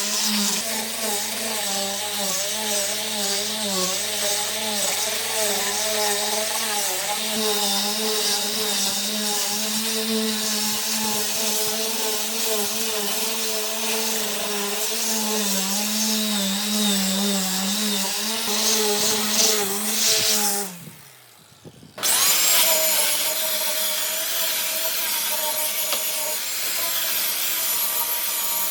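Electric power tool motor running on wood, its whine wavering in pitch as the load changes. It cuts out abruptly about two-thirds of the way through and comes back a second later.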